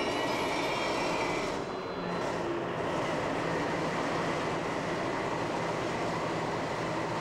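Railway wheels squealing in high, wavering tones, which stop about a second and a half in. Then a steady low rumble and hum of a DB class 218 diesel locomotive standing at the platform with its engine running.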